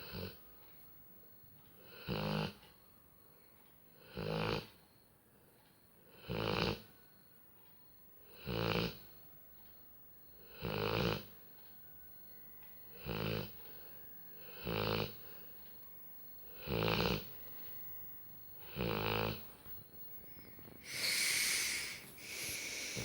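Labrador retriever snoring in its sleep: nine regular snores, roughly one every two seconds, each a short low rasping rumble. Near the end comes a longer, hissier breath.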